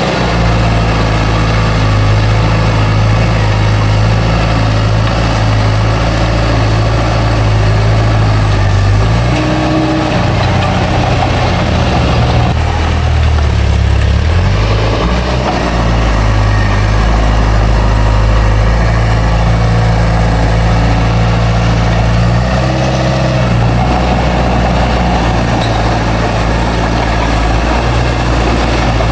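Heavy diesel engine of earthmoving machinery running steadily, its pitch shifting about ten seconds in and again a few seconds before the end as the load or throttle changes.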